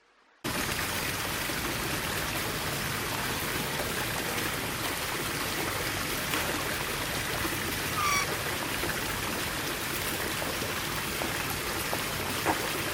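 Steady rush of running water, such as a tap or shower, starting suddenly about half a second in. A short falling bird chirp sounds over it about eight seconds in.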